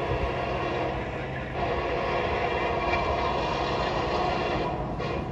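A train running by, a steady rumbling noise that grows louder about a second and a half in.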